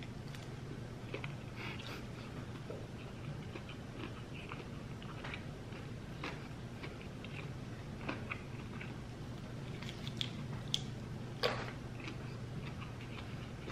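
A person chewing and biting a chicken sandwich and lettuce: scattered small crunches and clicks over a steady low hum.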